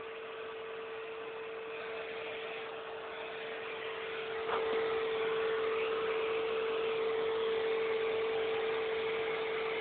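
Vacuum cleaner motor running steadily, a constant hum over a hiss, getting louder after a click about four and a half seconds in.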